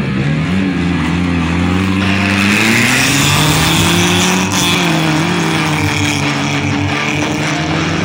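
Rally car's engine revving hard as it accelerates away down a gravel stage, its pitch climbing over the first second or so, then holding high and wavering.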